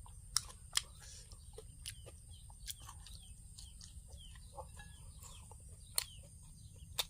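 Chickens clucking in the background, with scattered sharp clicks and smacks of someone eating close to the microphone; a few louder clicks come near the start and near the end.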